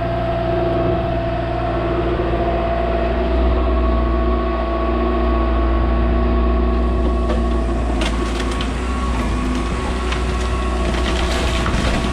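Volvo ECR145 DL excavator running steadily under load, its engine and hydraulics giving a constant low rumble with a steady whine over it. From about eight seconds in, scattered knocks and clatter join it.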